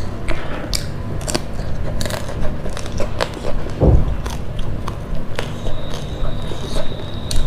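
Close-miked chewing and mouth sounds from a person eating by hand, with many short wet clicks and smacks. There is a low thump about four seconds in. A faint high steady tone starts a little past halfway.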